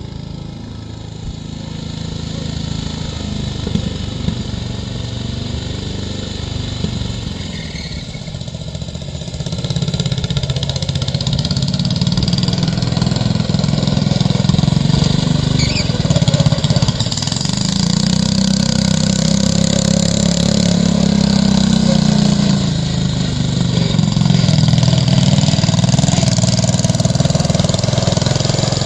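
John Deere 210 lawn tractor's engine running, getting louder about ten seconds in and staying loud.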